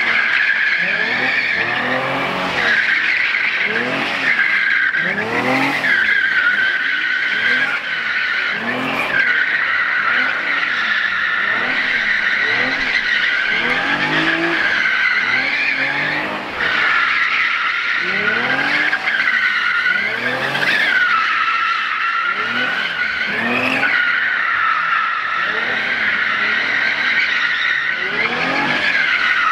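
Nissan 240SX drift car sliding through continuous drifts: its rear tyres squeal without a break while the engine revs rise and fall every second or two as the throttle is worked. The tyres are worn almost bald.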